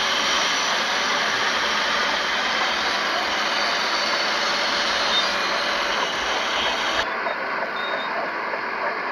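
Heavy diesel earthmoving machinery running steadily with a dense, even mechanical noise. About seven seconds in, the sound shifts abruptly and becomes slightly quieter.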